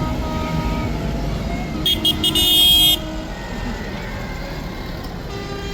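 Tractor engines running at a low rumble, with a vehicle horn giving two short toots and then a longer blast about two seconds in.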